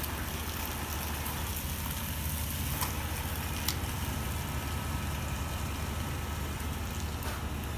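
A vehicle engine idling steadily, a low even rumble, with two faint clicks about three and four seconds in.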